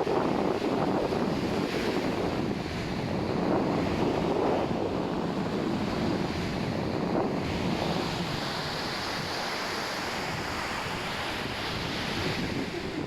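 Sea waves breaking and washing up the sand, with wind buffeting the microphone. From about seven seconds in, the hiss of the wash grows brighter and steadier.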